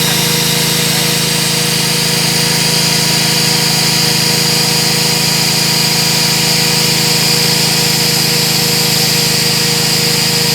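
Magnetic drilling machine's motor running steadily at speed, with an even mechanical hum and a constant high whine.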